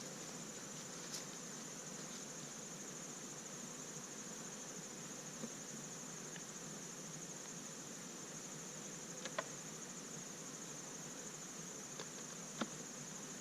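Honeybees humming steadily around an open hive, with a continuous high-pitched steady trill above the hum and a few brief faint clicks.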